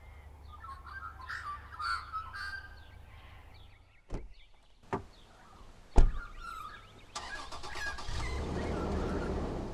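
Birds chirping for the first couple of seconds, then three sharp thumps about a second apart, the last the loudest. About seven seconds in, a car engine starts and keeps running.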